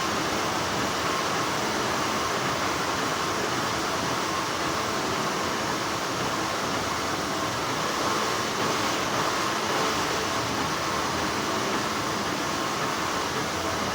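Steady, continuous hum and hiss of textile factory machinery, with a faint steady tone running through it.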